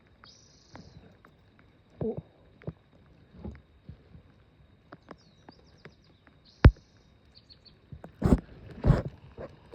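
Scattered knocks and one sharp click in a small fishing boat, ending in two louder thumps, with a bird chirping briefly now and then.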